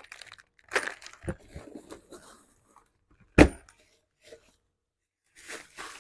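Rustling and clicking as boxed exhaust header parts and their packaging are handled, with one sharp knock about three and a half seconds in.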